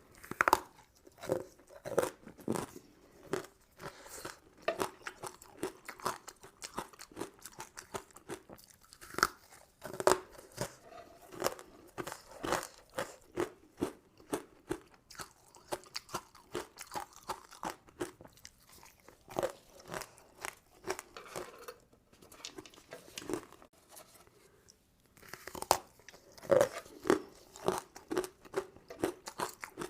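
Close-miked eating of crunchy sugar-crusted candy: a fast run of crisp crunches as it is bitten and chewed, easing off about two-thirds of the way through and then picking up again.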